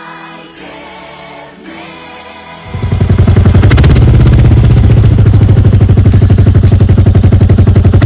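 Background music with singing, then about two and a half seconds in the loud, rapid, even exhaust beat of a Kawasaki VN 1500 Mean Streak's V-twin comes in, running through a Falcon exhaust fitted with a double dB killer.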